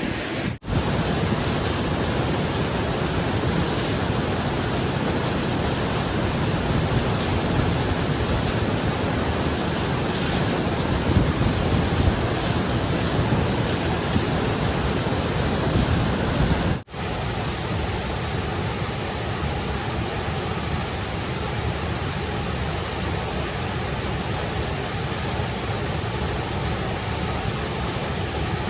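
Steady rush of fast-flowing stream water, with two brief dropouts, one just under a second in and one about two-thirds of the way through.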